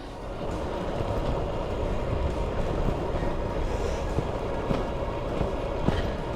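Steady wind rush on the microphone and tyre rumble from a road bike rolling along a country lane, with a few small clicks.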